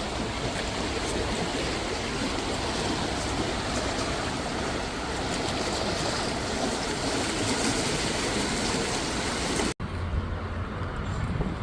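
Running water rushing steadily under a bridge. Near the end the sound cuts off abruptly and gives way to a duller, low rumble.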